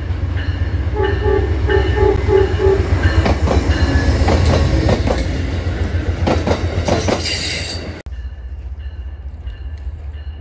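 Amtrak passenger train hauled by a diesel locomotive passing close: heavy rumble with a short tone repeating about three times a second, then the wheels clicking over rail joints as the cars go by. It cuts off sharply about eight seconds in to the quieter rumble of a train in the distance.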